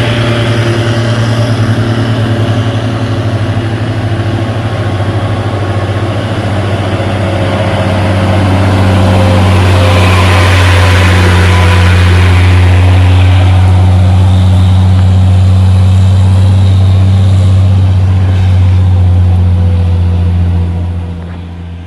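Heavy tanker truck's diesel engine pulling up a steep incline, a loud steady deep drone that swells a third of the way in and falls away near the end as the truck moves off.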